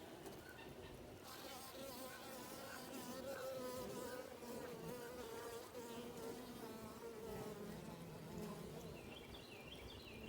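Honey bees buzzing around a hive and feeder, several overlapping hums that waver up and down in pitch as the bees fly past.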